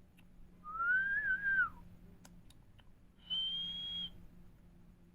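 Green parrot whistling twice: a first whistle that rises then falls, and a second, shorter whistle held steady at a higher pitch. A few faint clicks come between the two.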